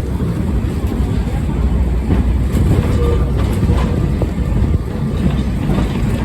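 Lisbon Tram 28, a vintage electric streetcar, running on its rails, heard from on board: a steady, loud, low rumble with a few faint clicks and rattles.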